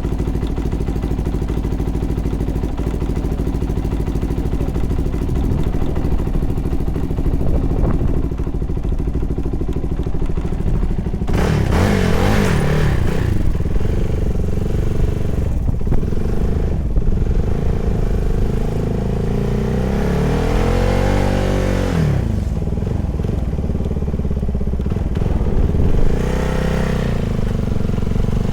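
CFMoto 300SR's single-cylinder engine idling steadily for about eleven seconds, then revving, its speed rising and falling several times, with one clear climb and drop about twenty seconds in.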